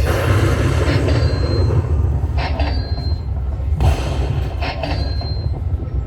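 High Stakes Lightning Link slot machine sounds: a steady, loud low rumble with a short high chime about a second in and again near the end, as the machine cycles through spins.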